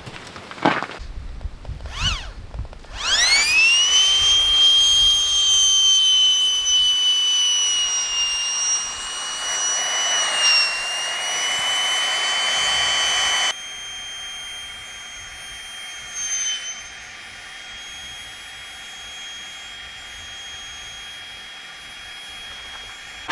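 A high, steady whistle that rises quickly in pitch, then holds, over a loud hiss. Partway through the hiss cuts off suddenly, and the whistle carries on more quietly. A few knocks come just before the whistle starts.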